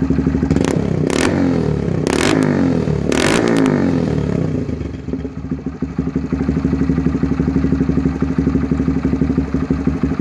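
Honda Grom SF's single-cylinder engine through a Zoom aftermarket exhaust, cold and warming up. It is revved in a few quick throttle blips from about half a second to four seconds in, with several sharp cracks among them, then settles back to a steady pulsing idle.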